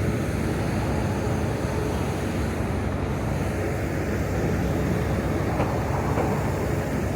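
Steady low rumble of city street noise and traffic, with no distinct event standing out.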